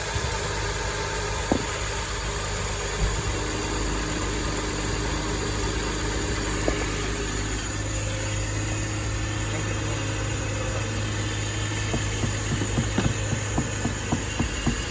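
BMW X5 engine idling steadily, smooth and nice, with its freshly rebuilt AC compressor clutch and bearing turning without the earlier bearing noise, a sign the new bearing has cured it. Near the end a run of sharp clicks comes about twice a second.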